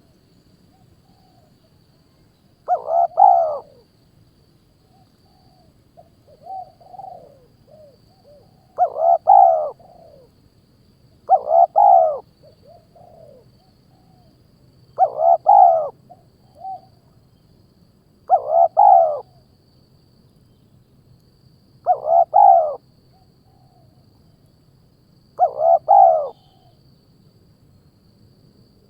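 A bird call repeated over and over: seven loud calls of about a second each, roughly every three seconds, with softer, shorter calls between them.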